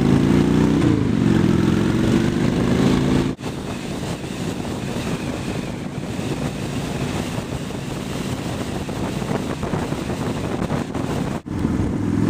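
2003 Honda Shadow Spirit 750's V-twin engine running steadily through aftermarket Cobra exhaust pipes, cut off abruptly about three seconds in by a long stretch of rushing wind noise on the microphone at road speed. The engine note returns abruptly near the end.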